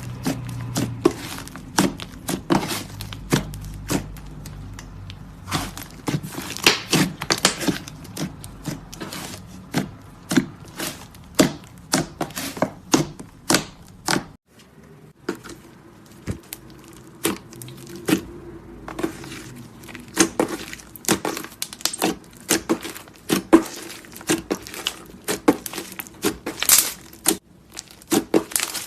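Clay slime being squished and worked by hand, giving rapid, irregular crackling and popping clicks, with a brief pause about halfway through.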